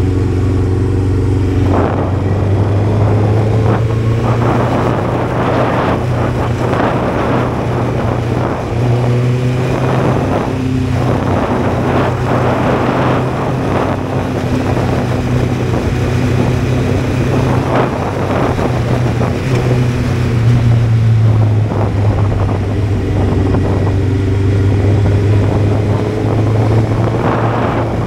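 Honda CBR600F inline-four engine running at a fairly steady pitch on the move, its note rising and falling only slightly. Repeated gusts of wind noise buffet the microphone.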